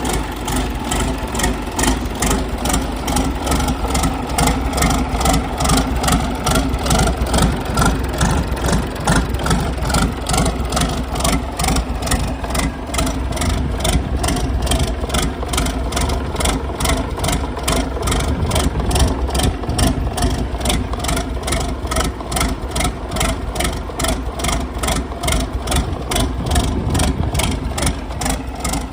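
Isuzu UM6BG1TC turbocharged six-cylinder marine inboard diesel engine running steadily at idle, with an even, regular pulse.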